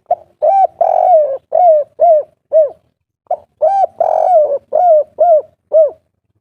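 Spotted dove (tekukur/derkuku) singing its 'kuk 3' coo song twice. Each phrase is a run of low, arched coos with a longer note early on, ending in three short 'kuk' notes.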